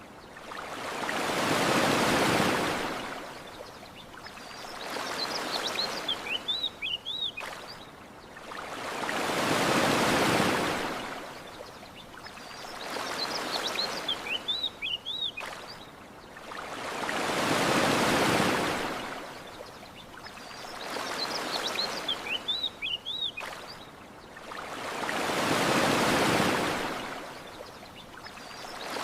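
Ocean waves washing onto a shore, a rushing swell that rises and falls, the biggest about every eight seconds with a smaller one between. Clusters of short high bird chirps sound in the lulls, the same pattern repeating every eight seconds.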